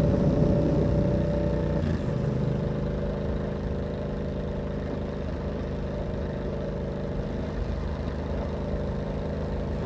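Yamaha MT-07's parallel-twin engine running through an aftermarket carbon exhaust fitted with a dB killer. It drops to a lower, quieter steady note about two seconds in and then holds there.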